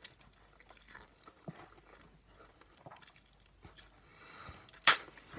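Faint chewing and small mouth sounds of someone eating spicy noodles, with scattered light clicks and one sharp click near the end.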